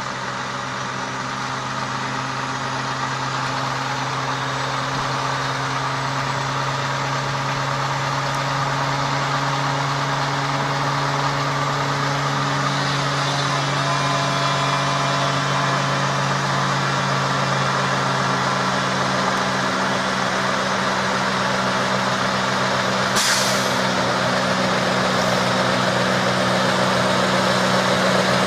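Engine of a large hi-rail truck hauling a work train, running steadily and slowly growing louder as it approaches, its pitch stepping up about two-thirds of the way through. A short hiss sounds about four-fifths of the way through.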